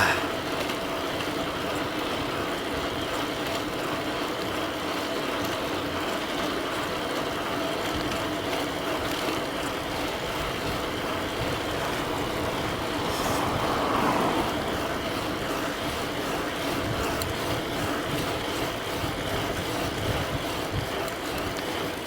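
Riding sounds of an e-bike with a Bafang BBS02B mid-drive motor: a steady motor whine over tyre and wind noise. The sound grows louder for a moment about 14 seconds in.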